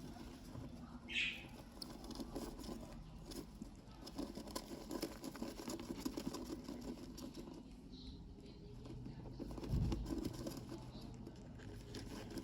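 Budgerigars shuffling in the nest box: small scratches and pattering on the bedding, with a short high peep about a second in, a fainter one near eight seconds, and a dull bump near ten seconds.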